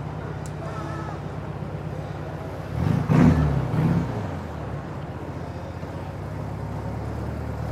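GT40 replica's engine running as the car drives slowly in traffic, with a short, louder rev about three seconds in.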